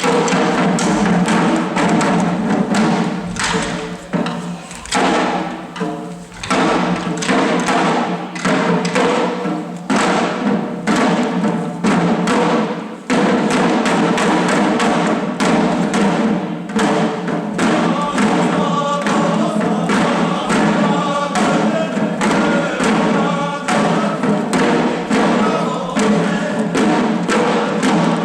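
Shishi odori deer dancers beating the drums slung at their chests in a dense, steady rhythm while singing together in a chant-like chorus. The drumming and singing break off briefly about halfway through, then resume.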